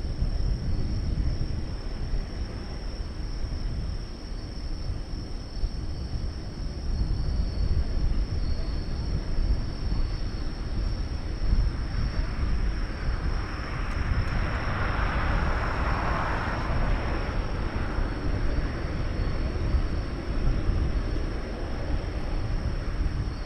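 Jet engines of an Airbus A380 climbing away after takeoff: a steady low rumble, with a broad hiss that swells and fades about halfway through.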